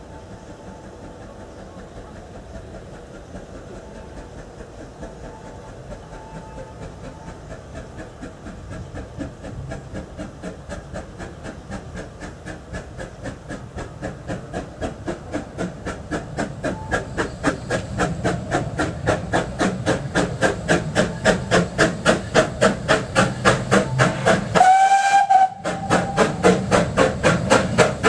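Vale of Rheidol narrow-gauge steam tank locomotive approaching under power. Its exhaust beats grow steadily louder until they are about four a second. About 25 seconds in it gives one short blast on its whistle.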